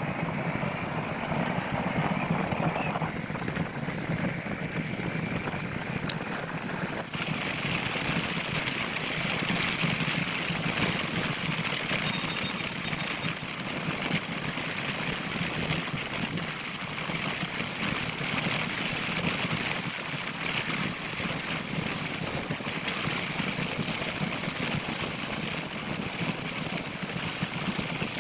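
Motorcycle riding at a steady pace: a low engine hum under a steady rush of wind and road noise. A short, high, evenly spaced ticking comes in about twelve seconds in.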